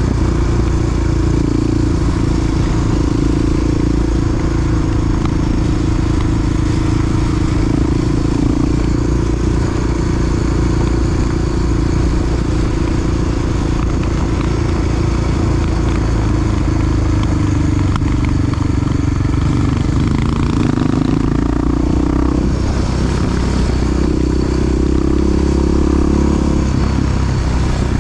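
Large single-cylinder Honda XR dirt bike engine running steadily under way, with road and wind noise. The engine note dips and wavers about twenty seconds in, then steadies again.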